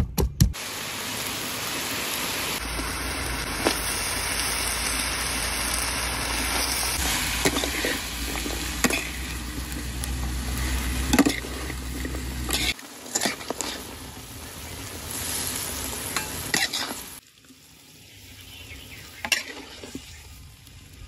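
Food sizzling as it fries in a pan, stirred with a utensil that clicks and scrapes against the pan now and then. The sizzle drops away and is much quieter for the last few seconds.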